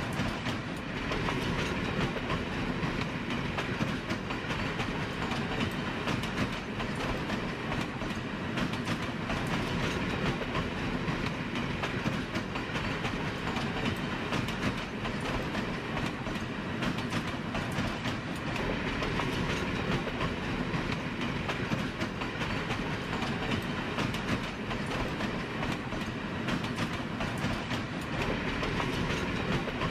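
A railway train running on the track: a steady rolling noise of wheels on rails that holds an even level throughout.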